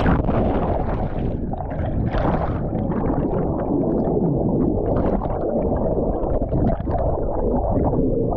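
Rushing, churning river water and splashing around a canoe running a rapid, picked up close by a GoPro's microphone with a heavy low rumble.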